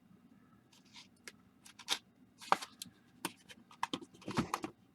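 Sealed baseball card packs and boxes being handled and set down: scattered light clicks and brief crinkles of wrappers, more of them in the second half.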